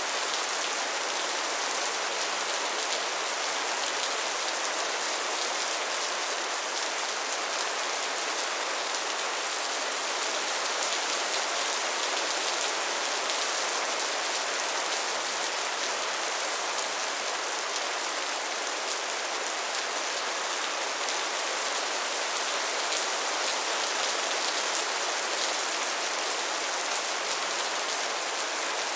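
Soft, steady rain falling, a dense patter of fine drops on a surface, even throughout.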